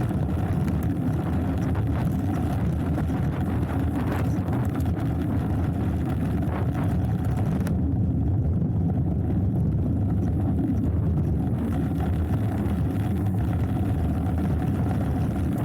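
Hardtail mountain bike rolling down a dirt trail: a steady low rumble of tyres and wind on the microphone, with a few clicks and rattles. The hiss in the upper range drops away for a few seconds about halfway through.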